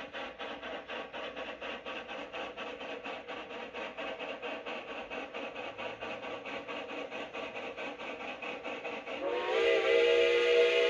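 Geared Shay steam locomotive working, its exhaust beating in a rapid, even rhythm of chuffs. About nine seconds in, a steam whistle starts to blow, several tones sounding together.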